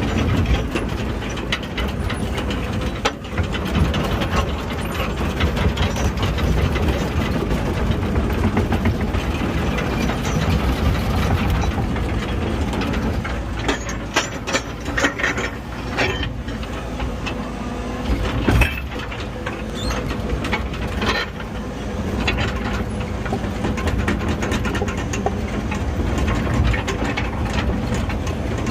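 Diesel engine of earthmoving equipment running steadily while grading and dragging dirt, with scattered metallic knocks and clanks, a sharper one about eighteen seconds in.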